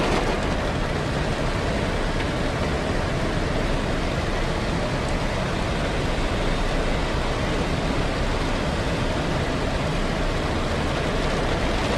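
A car driving in heavy rain: a steady rushing noise of tyres, engine and rain.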